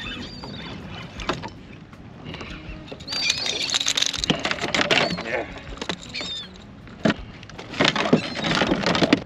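Seabirds feeding over the water, giving repeated short shrill cries, with bursts of splashing about three seconds in and again near the end.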